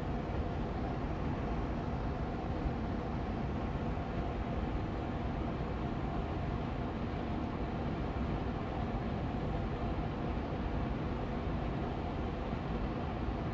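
Austin Air Allergy Machine air purifier fan running on medium speed: a steady airy whir with a gentle hum and a faint steady tone.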